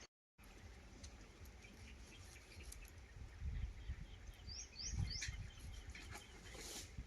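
A small bird chirping faintly, a quick run of three short chirps about four and a half seconds in, over a low rumble and scattered light clicks.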